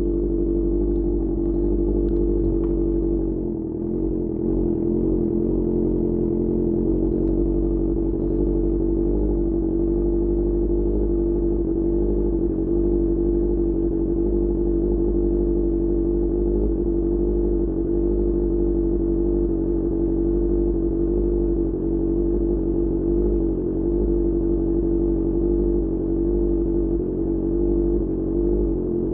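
QJ Motor SRK600's inline-four engine, breathing through a Pure Austin Racing GP1R exhaust, running steadily at an even speed with no revving.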